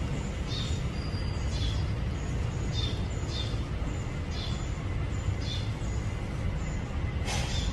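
A small bird chirping over and over, short high chirps about twice a second, over a steady low rumble of background noise. A brief scrape or rustle comes near the end.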